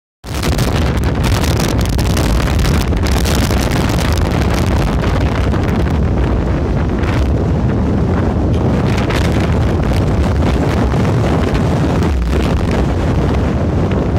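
Squally wind buffeting the microphone: a loud, continuous low rumble and rushing hiss with repeated sharp gusts.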